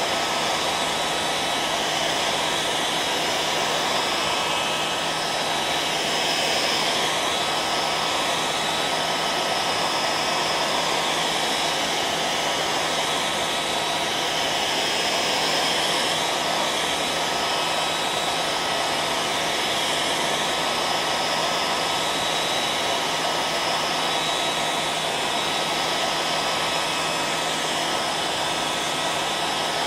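Hair dryer running steadily: an even rushing blow of air with a faint steady whine from the motor and a low hum underneath.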